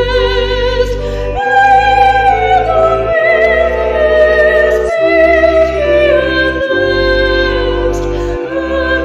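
Slow classical-style music: a solo voice singing long notes with vibrato over a sustained accompaniment whose low notes change every second and a half or so.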